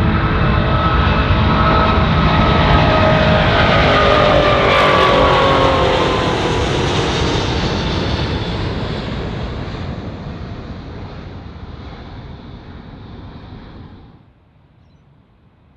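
Jet airliner passing close by, its engine tones dropping in pitch as it goes past, then fading away. The sound cuts off suddenly near the end.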